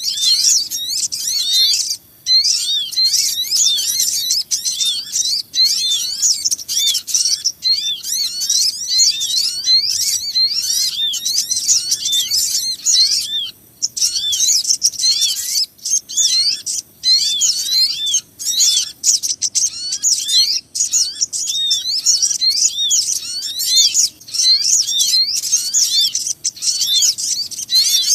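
Many small birds chirping over one another in a dense, fast, high-pitched chorus that breaks off briefly a few times. It is a bird-lure (pikat) call recording of small songbirds, used to draw in small birds such as the sogon.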